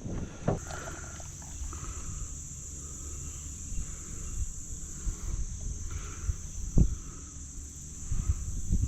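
Insects, crickets by their sound, chirring in a steady high-pitched drone over a low rumble, with a single sharp knock about two-thirds of the way through.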